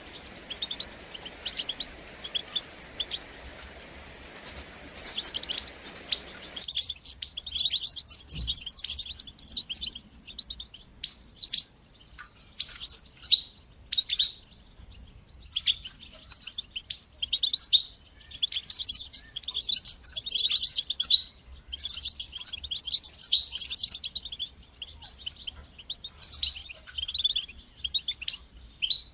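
European goldfinch singing a fast twittering song of high chirps and trills in quick phrases, with short pauses between them. A background hiss under the song stops abruptly about seven seconds in.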